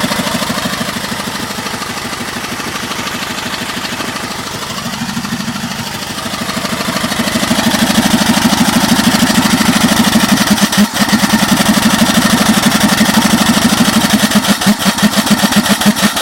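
5 hp single-cylinder Briggs & Stratton engine converted to run on steam, running fast with a rapid, even exhaust beat. The beat softens for a few seconds, then grows louder from about eight seconds in, with one sharp knock a little later; near the end the beats slow and become separate.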